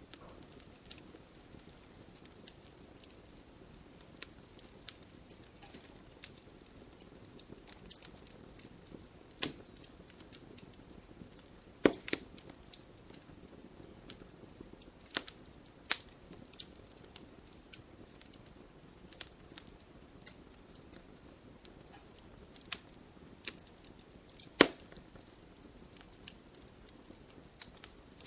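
Wood fire crackling in a fireplace: irregular sharp pops and snaps over a low hiss of burning, with two louder pops, one about halfway through and one near the end.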